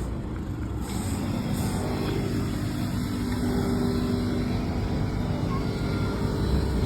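Car engine running, its pitch dropping about two seconds in and then holding steady.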